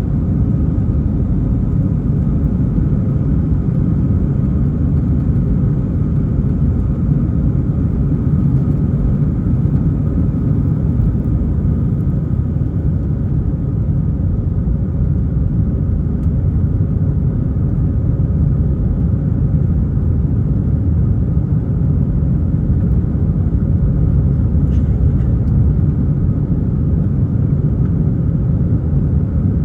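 Airbus A320 jet airliner's engines making a loud, steady low roar that stays even throughout, with a few faint steady tones above it.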